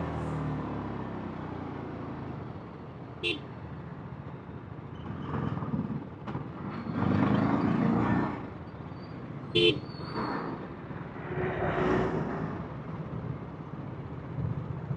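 TVS Apache RR310's single-cylinder engine and exhaust running on the road, its pitch falling at the start as it eases off, then swelling louder a few times. Two short horn beeps cut in, about six seconds apart.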